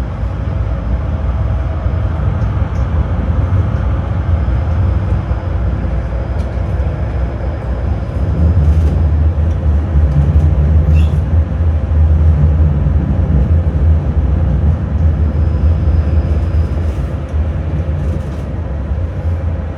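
Tram running along the track, heard from inside the car: a steady rumble of wheels on rails with a low hum, growing louder about eight seconds in, with a few short clicks.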